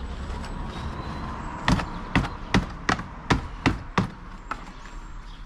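A bucket knocked seven times in quick succession, about two to three knocks a second, to shake the last of the dry cement out of it.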